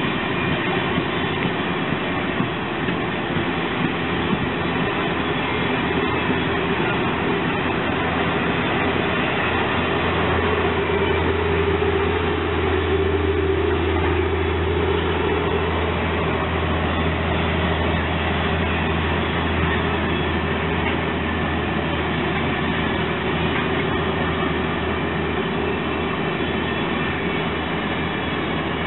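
Ringling Bros. circus train cars rolling past on the rails, a steady rumble of wheels and cars. A low hum grows louder about ten seconds in and eases off again about ten seconds later.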